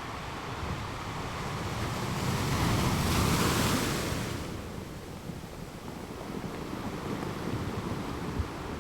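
Surf breaking on a rocky beach: a steady wash of waves that builds to one crash about three seconds in, then falls back to a lower rush.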